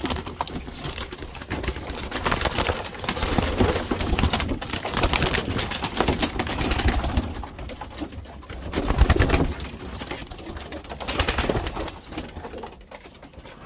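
Racing pigeons cooing in a loft, with irregular wing flaps and scuffling as a bird is caught by hand. The loudest flurry comes about nine seconds in, and it settles near the end.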